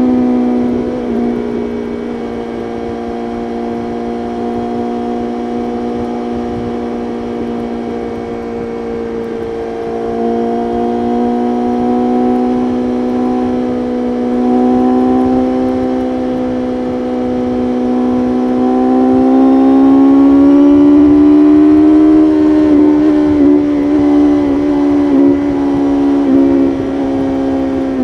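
BMW S1000RR's inline-four engine running at high, steady revs at highway speed. About two-thirds through, its pitch climbs as the throttle opens, then wavers with quick throttle changes before settling lower near the end.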